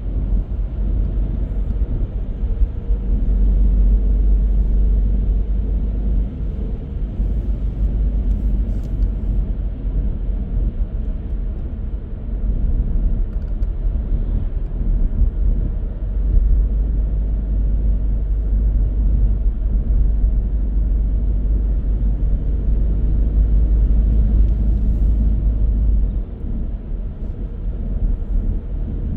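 A car driving along the road: steady road and tyre noise with a deep rumble that swells and eases.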